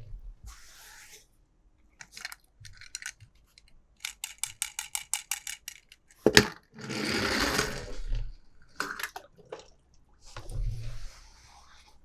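Hard plastic and die-cast toy cars and packaging being handled: a run of quick, even clicks, a single sharp knock about six seconds in, then about a second of rustling, with scattered small clicks around them.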